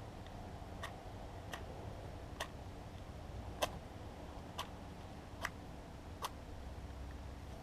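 A match struck against the side of a matchbox seven times, each a short sharp scratch about a second apart, none catching: the matches are damp.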